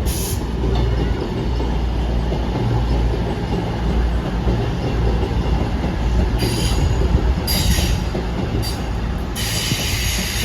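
A train rumbling along the track, with its steel wheels squealing against the rails in short spells from about six and a half seconds in and then steadily near the end.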